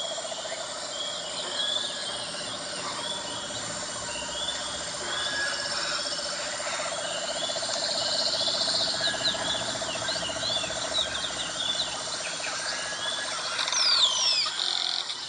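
Birds calling: short rising chirps repeating about once or twice a second over a steady buzzing trill. A louder flurry of quick sweeping whistles comes near the end.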